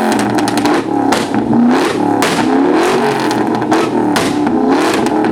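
Ford Mustang V8 revving hard and repeatedly in a rev battle, its pitch climbing and dropping again and again, with sharp exhaust pops between revs.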